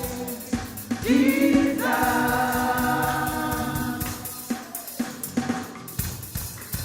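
Gospel worship music: voices singing together over a drum kit, with one long held note starting about a second in and drum hits throughout.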